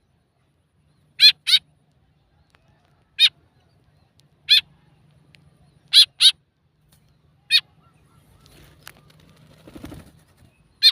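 White-breasted woodswallow (kekep babi) giving short, harsh calls, some single and some in quick pairs, about every one and a half seconds. Faint rustling shortly before the last call.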